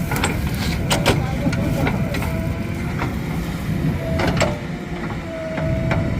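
JCB 3DX backhoe loader's diesel engine running at working load, a steady low rumble. Sharp metallic clanks come just after the start, twice about a second in, and again just past four seconds.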